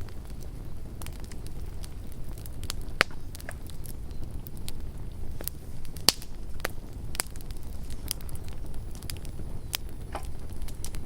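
Campfire burning with a steady low rumble and irregular sharp crackles and pops, the loudest about three and six seconds in.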